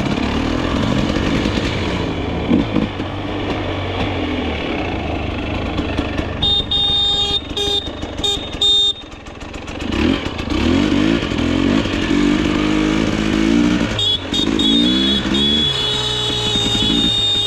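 Dirt bike engine running and revving up and down as it is ridden, with a high-pitched steady tone that sounds twice, for a few seconds each time.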